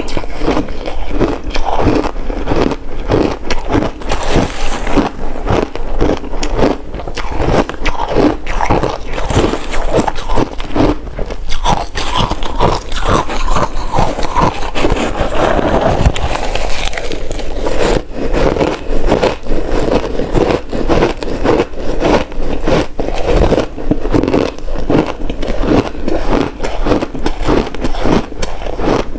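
Ice being bitten and chewed: a dense, continuous run of crunching and cracking, with a smoother grinding stretch about halfway through.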